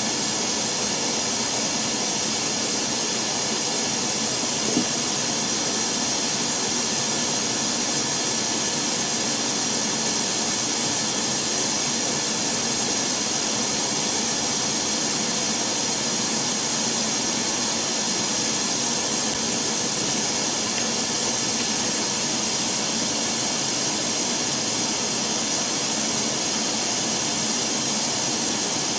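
Steady, loud rush of air from a machine used to clean dirt out of gas boiler burners, running unchanged throughout, with one short tick about five seconds in.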